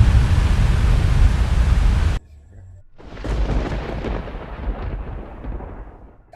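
Thunder: a loud, deep rumble cuts off abruptly about two seconds in, and after a short lull a new thunderclap about three seconds in rolls and slowly fades away.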